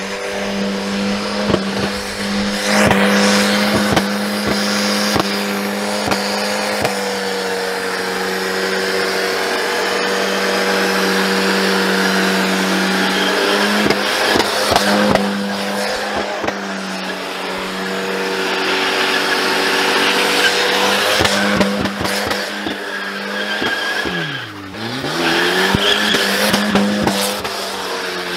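Volvo 940 engine held at high, steady revs while the car is driven hard, with its tyres spinning and squealing under the engine note. Near the end the revs drop sharply and climb straight back up.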